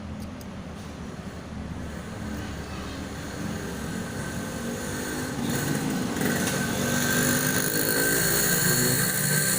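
A motor-vehicle engine running and growing steadily louder, with a high whine coming in about six seconds in.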